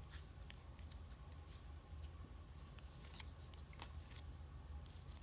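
Faint clicks and rustles of trading cards being handled and flipped through one by one, over a steady low hum.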